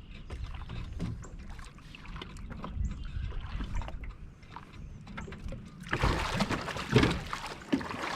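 Handling noises in a small jon boat while a freshly caught catfish is held: scattered knocks and clatter against the hull with water sloshing. About six seconds in comes a louder rush of noise with hard knocks, loudest near seven seconds.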